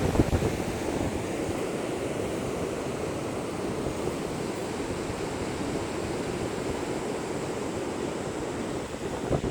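Strong wind buffeting the microphone, mixed with the rush of surf: a steady, even noise with no let-up.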